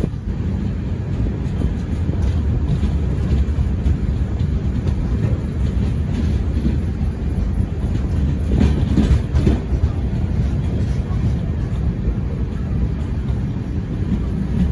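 Karnataka Express passenger train running at speed through a station without stopping, heard from on board beside the coaches: a steady loud rumble of wheels on rail with clickety-clack. A brief burst of louder wheel clatter comes about nine seconds in.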